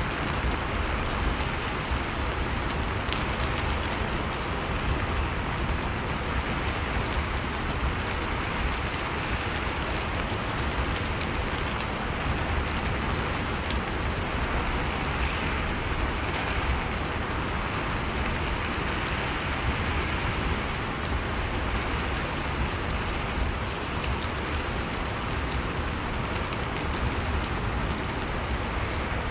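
Steady rain falling, an even hiss of drops with faint scattered ticks of individual drops.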